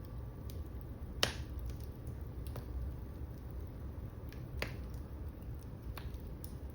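Wood fire crackling in a fireplace: a few scattered sharp pops, the loudest about a second in, over a low steady rumble.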